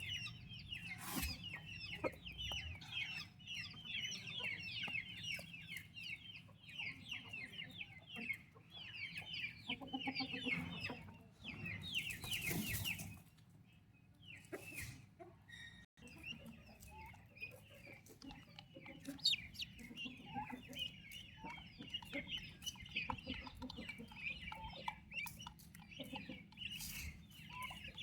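A flock of turkey poults peeping: a busy, continuous chorus of short high calls, with a brief burst of noise around the middle.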